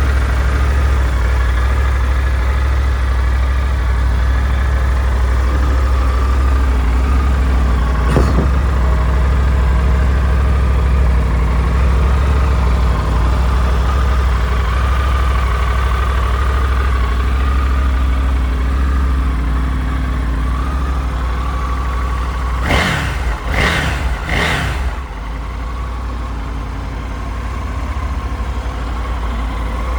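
Triumph Tiger 900 GT Pro's three-cylinder engine idling steadily. There is a single short click about eight seconds in, and three short, louder bursts a little over twenty seconds in, after which the idle goes on slightly quieter.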